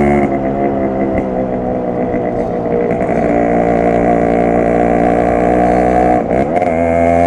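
Yamaha RX100's single-cylinder two-stroke engine and exhaust under way. The note drops as the throttle eases about a third of a second in, runs fairly steady, then drops away briefly near the end before picking up again.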